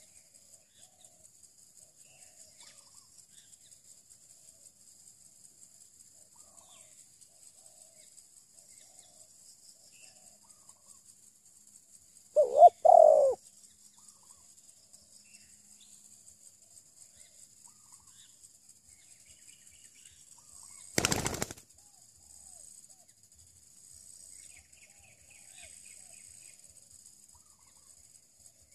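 A loud, short two-part bird call a little before halfway through. About eight seconds later comes a brief, loud burst of wing flapping. A faint, steady high insect hiss runs underneath.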